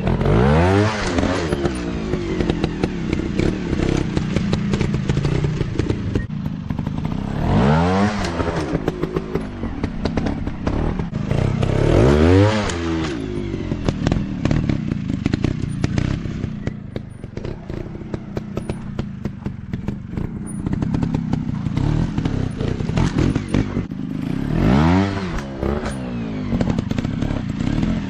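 Dirt bike engines running throughout, with the throttle opened hard four times, each a rev that climbs and falls back. Between the revs the engines run at lower speed, with clattering and thumping.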